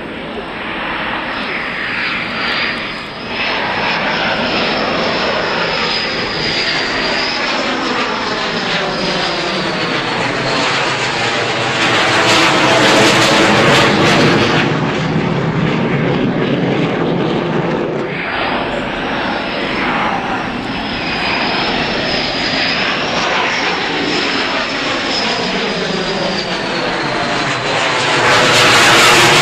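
Two F/A-18 fighter jets flying over on their arrival: continuous loud jet-engine noise with a high whine above it. The sound swells to a loudest pass about 13 seconds in and a second one near the end, as each jet goes over.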